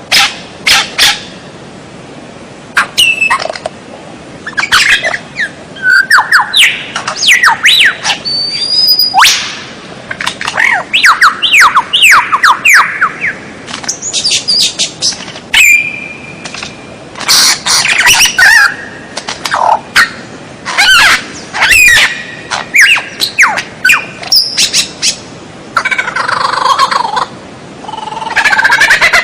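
White-rumped shama (murai batu) singing: a varied run of short whistled phrases, sweeping notes and chirps with brief pauses between them, including quick series of falling notes and a dense rapid trill near the end.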